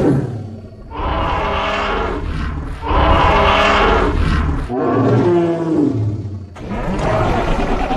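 Designed creature sound effect: a run of long, deep animal-like roars, about five in a row, starting abruptly.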